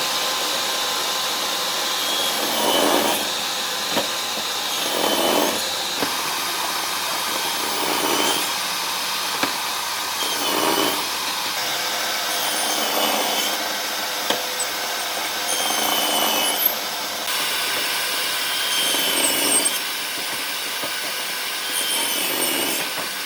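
A power tool working wood in repeated passes about every two and a half seconds; its motor note dips under load on each pass and recovers between them.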